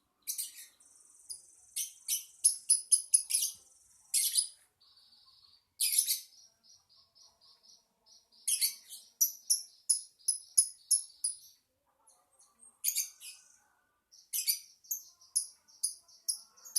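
Lovebird chirping: fast runs of shrill, high-pitched chirps broken by short pauses, with softer buzzy trills in between.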